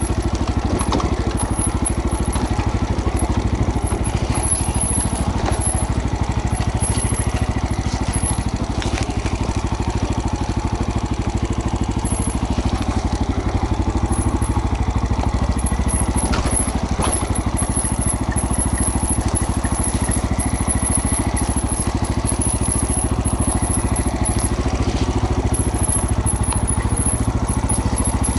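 Single-cylinder trail motorcycle engine running steadily at low revs, with a few faint clicks.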